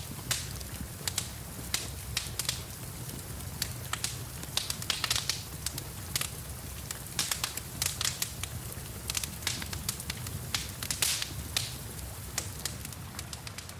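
Wood fire in a fireplace crackling, with frequent sharp pops and snaps at irregular intervals over a steady low rumble.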